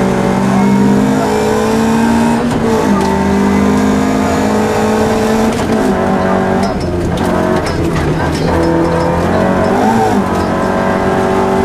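Opel Ascona rally car's engine, heard from inside the cabin, running hard under full throttle on a gravel stage, its pitch holding high and breaking with gear changes about two and a half, six and ten seconds in. Scattered clicks and rattles from about six seconds in, typical of gravel striking the car.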